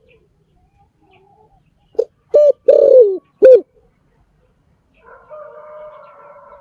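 A spotted dove calls one cooing phrase of four notes: two short coos, a longer coo that falls in pitch, then a final short coo. About a second and a half later a much fainter, drawn-out sound holding several steady pitches follows.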